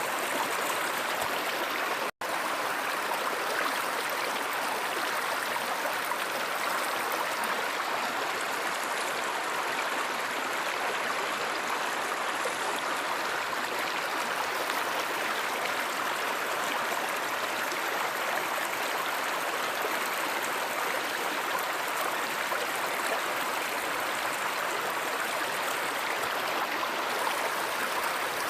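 Flowing river water, a steady even rush, broken by a split-second dropout about two seconds in.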